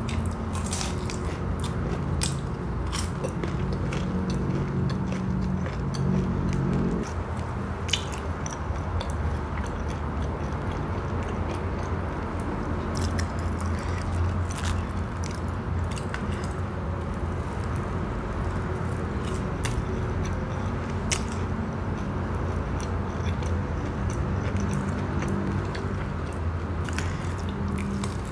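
Close-miked chewing and biting of crispy fried snacks, a thin cracker and fried pempek, with sharp crunches scattered throughout, over a low steady hum.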